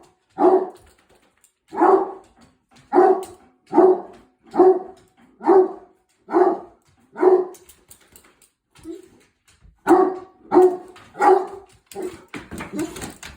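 A dog barking repeatedly, about a dozen separate barks under a second apart, with a short pause about two-thirds of the way through and softer noises near the end.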